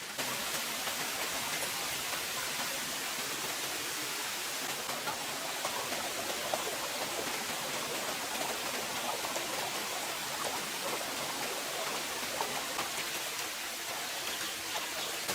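Steady hiss of falling or running water, with many small ticks scattered through it.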